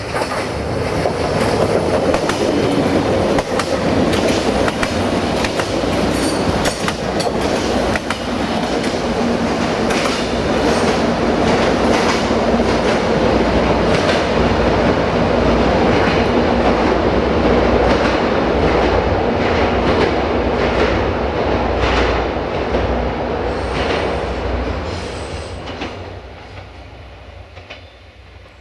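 Desiro VT642 diesel multiple unit passing close by, its wheels clicking over the rail joints over a steady engine hum, then fading away near the end.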